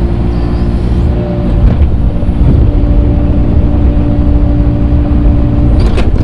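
Engine of the grading tractor running steadily under work, getting a little louder about a second and a half in, with a few sharp clanks near the end.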